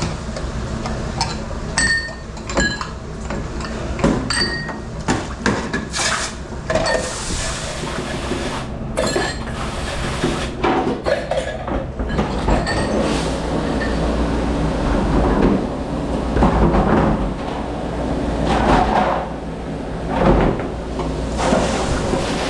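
Dishes, glassware and pans knocking and clinking as they are handled in a commercial dish room, over a steady low hum. A rushing noise grows louder in the second half.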